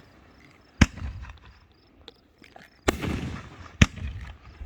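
Fireworks bursting in the sky: three sharp bangs, about a second in, near three seconds and near four seconds, each trailing off briefly.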